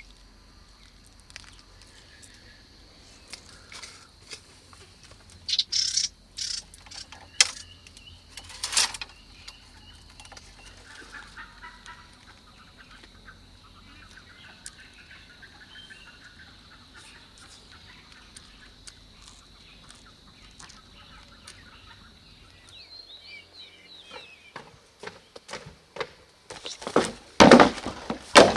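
Birds, probably the homestead chickens, clucking and calling over a steady high insect drone that stops a few seconds before the end, with scattered sharp knocks. Near the end comes a run of loud, sharp strikes on wood.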